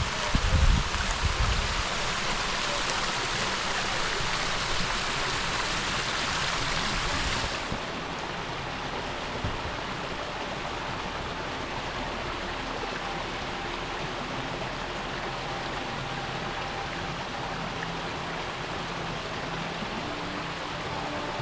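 Water rushing steadily in a stream. A few low bumps come at the start, and about seven seconds in the rush turns suddenly softer and duller.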